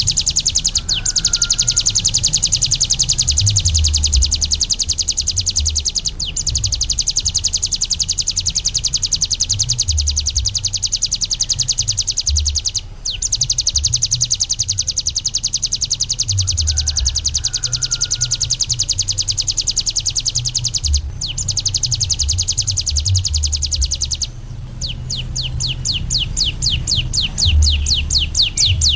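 Ciblek gunung (a prinia) singing a very fast, unbroken trill, the 'drilling' song prized by bird keepers, broken by short pauses a few times. About 24 seconds in it changes to a slower run of separate notes.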